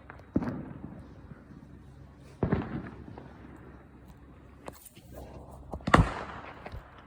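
Fireworks bursting at a distance: three booms, about half a second, two and a half, and six seconds in, the last the loudest, each trailing off in a rumble, with a few small pops and crackles between.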